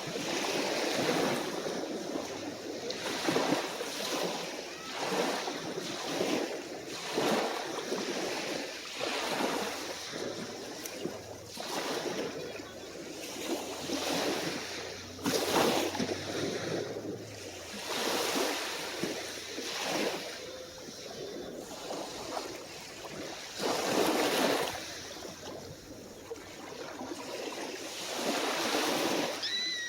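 Calm waves lapping onto the shore, one wash after another every second or two, a few of them louder. Just before the end there is a brief high-pitched call.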